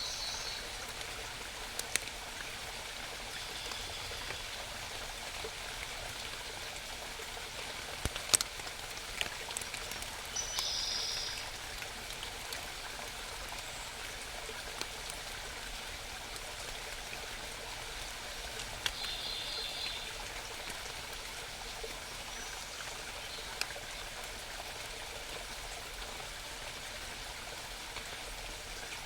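Small mountain stream babbling steadily, with a wild bird singing short high phrases four times. A few sharp clicks stand out, the loudest about eight seconds in.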